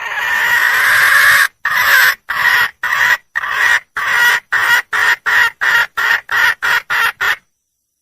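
Red junglefowl hen calling: one long call, then a run of about fourteen short calls that come faster and shorter until they stop suddenly. The uploader presents it as a hen calling for a mate.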